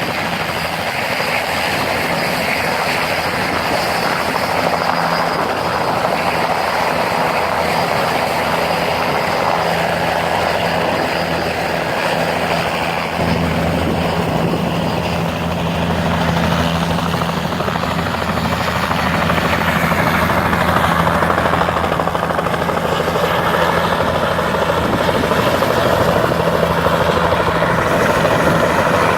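Helicopters running at close range, a continuous turbine-and-rotor din. The low end gets suddenly fuller about halfway through, and the sound grows a little louder toward the end.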